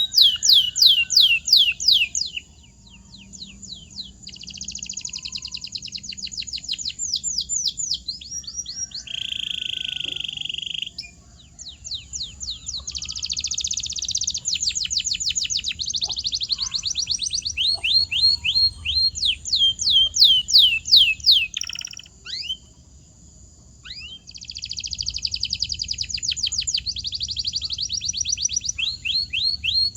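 Canary singing: fast rolling trills of rapidly repeated sweeping notes, with a steady held whistle about ten seconds in and two short breaks in the song.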